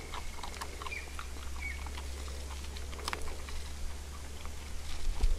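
Stray dogs crunching and chewing dry dog food, heard as a scatter of small irregular clicks and crunches over a steady low hum, with a few short bird chirps in the first two seconds.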